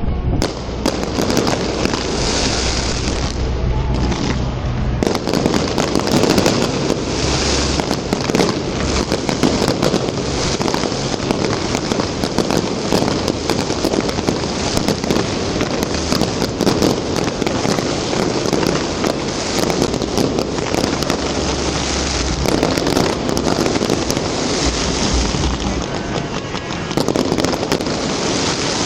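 Fireworks display: a dense, continuous barrage of cracks and crackling pops with low booms underneath, unbroken throughout.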